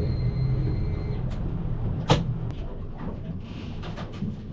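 Boat motor running slowly with a steady low hum that fades toward the end, and one sharp knock about two seconds in.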